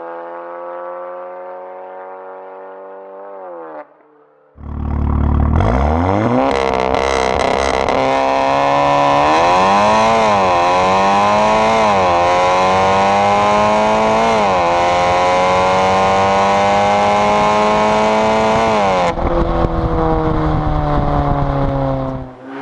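Audi S3 8V's turbocharged 2.0-litre four-cylinder engine through an Armytrix valvetronic exhaust. It runs steadily at first, then after a brief drop about four seconds in it comes back much louder under hard acceleration, its pitch climbing and dipping back at several gear changes before levelling off near the end.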